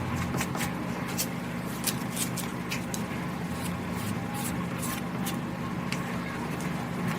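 Short, irregular scraping clicks of a spatula spreading soft body-filler paste thinly over a metal refrigerator panel, over a steady low hum.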